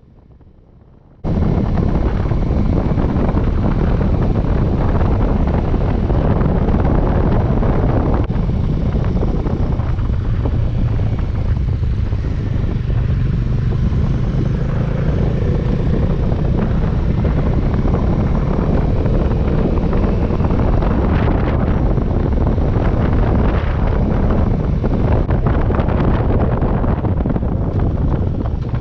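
Motorcycle riding at speed, its engine buried in heavy wind rush on the microphone; the steady loud rush cuts in suddenly about a second in.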